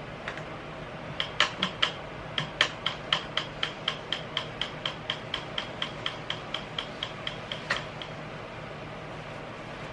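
A run of sharp mechanical clicks, like a ratchet, about four a second for roughly seven seconds; the first few are louder and uneven, then they settle into a steady rhythm. A steady low hum runs underneath.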